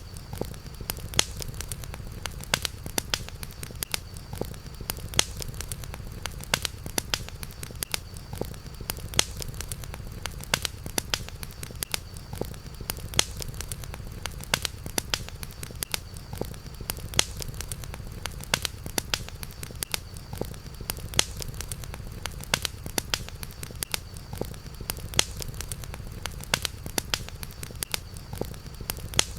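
Campfire crackling, with frequent irregular sharp pops and snaps over a steady low rumble and a faint steady high hum.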